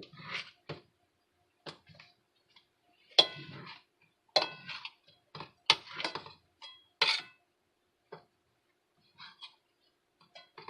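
Irregular knocks and clicks of kitchenware, with dishes and a cutting utensil handled on the counter, as leftover tortilla scraps are cut up.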